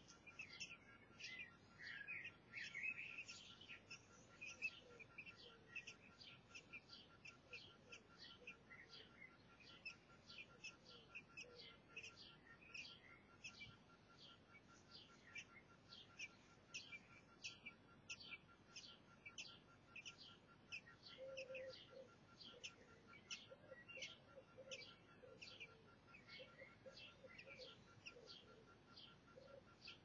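Faint, thin bird chirps repeated steadily, about one or two a second, each a quick downward sweep. There is a brief louder warbling cluster about two seconds in, and softer, lower twittering in the last third.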